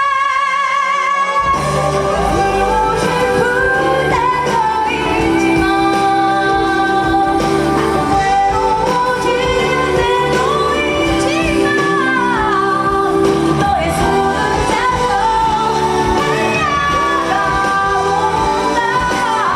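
A woman singing a pop song over full band accompaniment, her voice sliding between notes; the bass and drums come in about a second and a half in.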